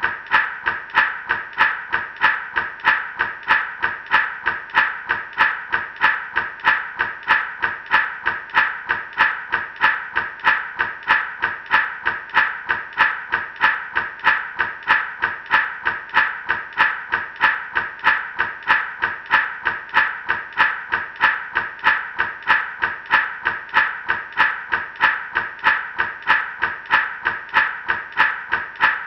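Gourd rattle shaken in a steady, even rhythm, about two to three shakes a second, each a short dry rattle of the seeds inside.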